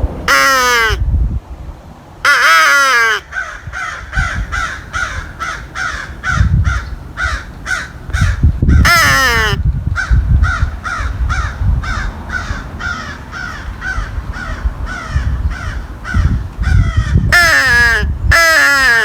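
Haydel's triple-tone crow call blown in five loud, harsh caws with a falling pitch, answered from about four seconds in by a run of fainter caws from several crows, roughly two a second.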